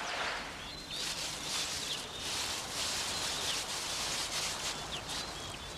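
Dry grass rustling and scuffing as a secretary bird works through it to flush out a snake, with small birds chirping faintly in the background.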